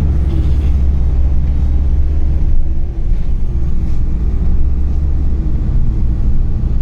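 KAvZ 4270-82 city bus under way, heard on board: a steady, deep rumble of engine and road, with a faint wavering whine from the drivetrain.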